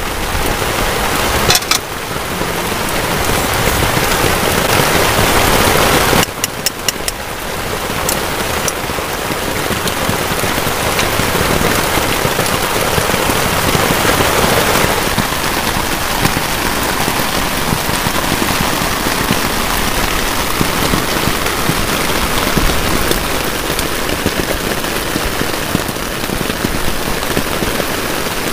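Heavy rain falling steadily on a tarp and wet grass. A few light clicks sound over the rain in the first several seconds.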